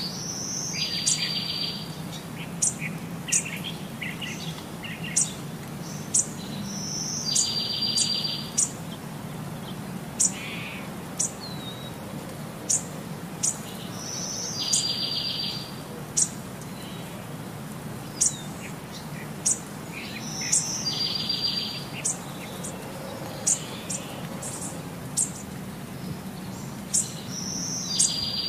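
Bird-like chirping repeating as a loop: about every six to seven seconds a short high chirp leads into a buzzy trill, with sharp high chips scattered in between, over a steady low hum.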